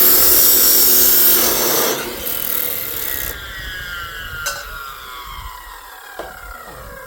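Power saw cutting through metal stock, then switched off about two seconds in, its motor whining down in falling pitch as it spins to a stop. Two light knocks near the middle and end.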